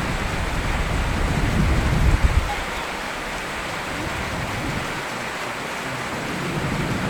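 Steady rain falling, with a low rumble that swells about a second in and dies away a little after two seconds.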